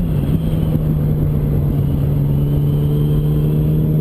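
Yamaha R1's inline-four engine running steadily on the move, its note dropping slightly about a quarter second in and then holding level, with constant wind noise underneath.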